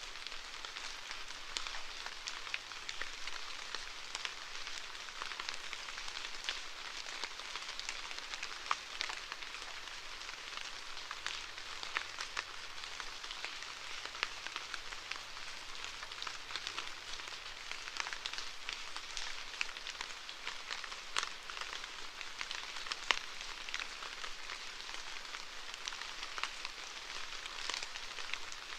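Steady rainfall, an even hiss with many individual drops pattering and ticking on a hard surface.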